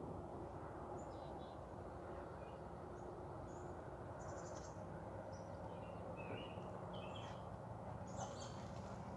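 Small birds chirping in short, scattered calls over a steady low background noise.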